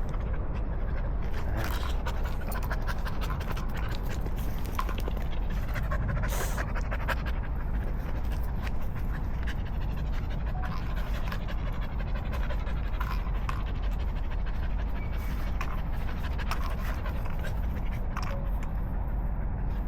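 A dog panting steadily, over a constant low rumble with scattered small clicks.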